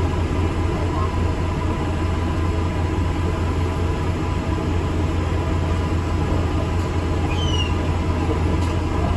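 Interior noise of an ADL Enviro 400 MMC double-decker bus under way: a steady low engine hum and running rumble in the cabin, with a couple of faint short squeaks near the end.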